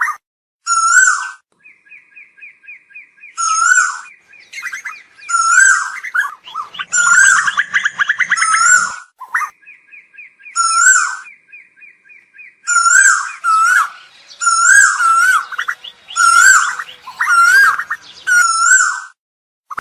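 Asian koel calling: short, loud calls repeated every second or two, with two stretches of rapid, evenly spaced chattering notes between them.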